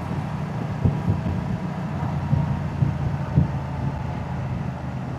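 Moto Guzzi motorcycle's V-twin engine and exhaust running steadily under way, with a few brief louder pulses about one, two and a half, and three and a half seconds in.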